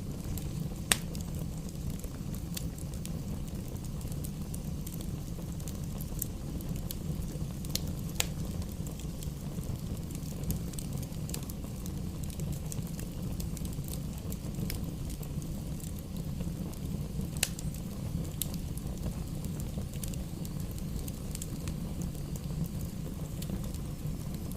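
Campfire burning: scattered sharp crackles and pops of burning wood, with a few louder pops, over a steady low rumble.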